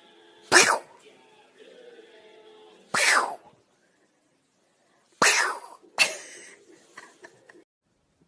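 Four short, sharp sneezes, each sliding downward, about half a second, three seconds, five seconds and six seconds in.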